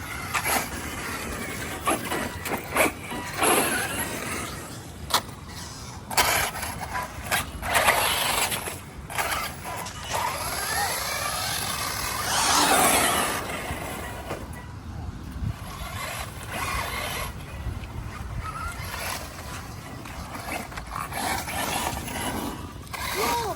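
A 1:8-scale electric RC buggy being driven: its motor whine glides up and down in pitch as it speeds up and slows, over a steady hiss of tyre noise, with scattered sharp knocks.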